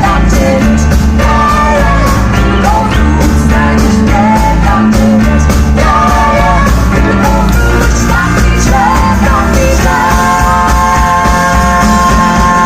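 Rock band playing with a lead singer over a steady bass and drum beat. Near the end the singer holds a long note.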